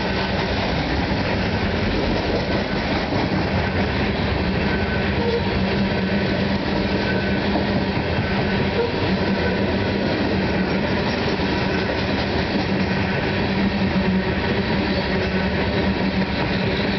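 Coal hopper cars of a CSX freight train rolling past: a steady, loud rumble and clatter of steel wheels on the rails.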